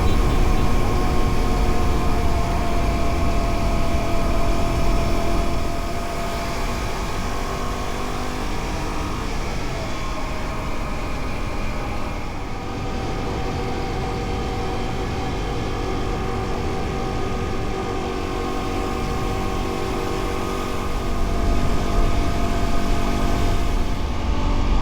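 Dual-sport motorcycle engine running on the move, its note shifting slowly, with rumbling wind and road noise. It gets quieter about six seconds in and louder again near the end.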